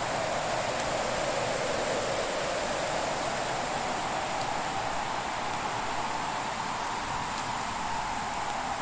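Wood fire burning as a steady hiss, with a few faint, sparse crackles.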